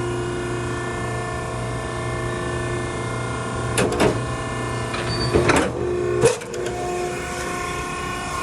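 Maren baler's hydraulic power unit running with a steady hum as the ram travels. There are clanks about four and five and a half seconds in, and a sharp knock a little after six seconds, after which the lowest part of the hum drops away.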